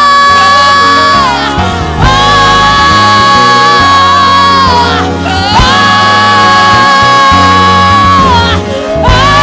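Live gospel worship music: a band plays sustained chords while long high notes are held in three phrases of about three seconds each, each note sliding in at its start and falling away at its end.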